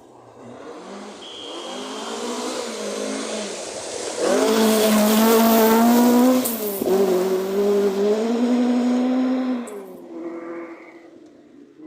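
Rally car on a forest stage, its engine approaching and passing hard at high revs. It is loudest from about four seconds in, with a sharp drop in engine pitch near seven seconds, like a gearchange, before fading away.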